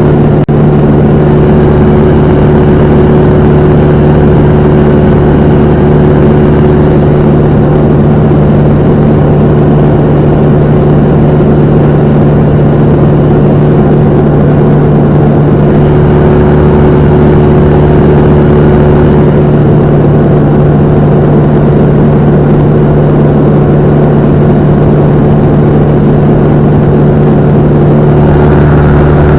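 Cessna 172M's four-cylinder Lycoming engine and propeller running steadily at a constant speed, loud and unchanging.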